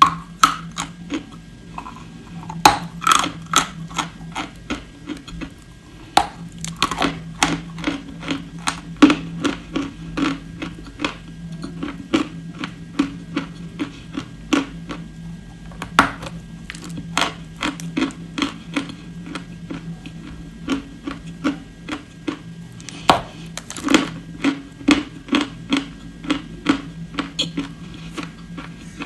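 Someone biting and chewing crunchy edible clay, a run of sharp, irregular cracks and crunches with a steady low hum underneath.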